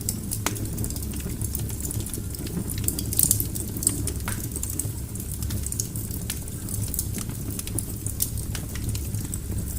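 Wood fire burning in a fireplace: a steady low rumble of flames with frequent sharp crackles and pops from the logs, a few louder pops a little past the middle.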